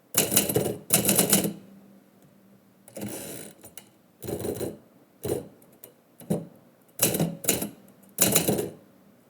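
Typewriter being typed on in short bursts of a few keystrokes each, with brief pauses between bursts.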